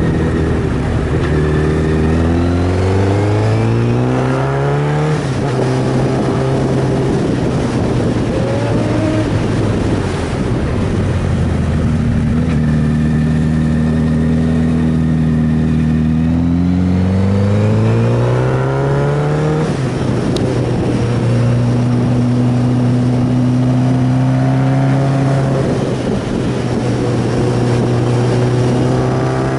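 A sport motorcycle's inline-four engine pulling hard. It climbs in pitch through the revs, drops at each gear change and climbs again several times, with stretches at steady speed between. A steady rush of wind and road noise runs underneath.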